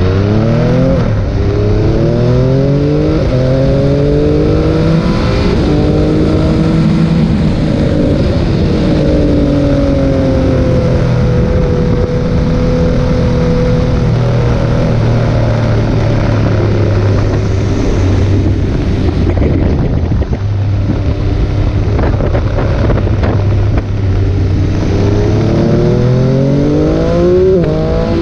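Triumph Speed Triple RS's inline three-cylinder engine under hard acceleration on a track, heard from a camera on the bike over wind rush. Revs climb in a series of rising pulls broken by upshifts in the first few seconds, hold fairly steady through the middle with two brief dips later on, then climb again near the end.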